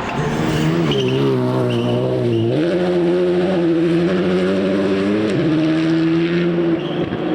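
Rally car engine revving hard under load, its pitch stepping up about two and a half seconds in and holding high, then easing off near the end.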